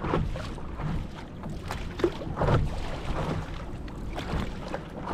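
Choppy lake water slapping and splashing irregularly against a paddle board, with a low steady rumble underneath.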